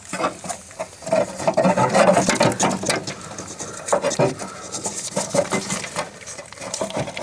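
Hands handling a rubber drive belt and the mower's metal parts: scattered clicks, taps and rubbing, busiest in the first few seconds.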